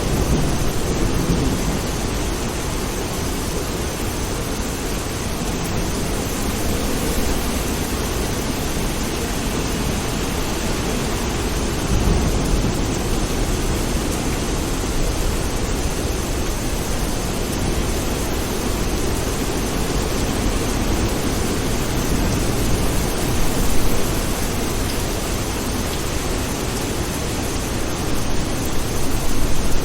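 Steady rain falling, with low rolling thunder that fades away in the first couple of seconds and builds again near the end.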